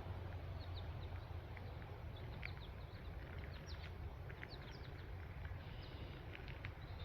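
Birds chirping, with many short, scattered high calls over a steady low rumble.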